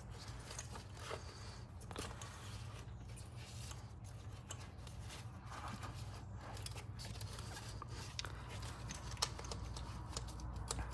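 Faint handling noises: rustling, light scraping and scattered small plastic clicks as an engine wiring harness is fed into place, over a steady low hum.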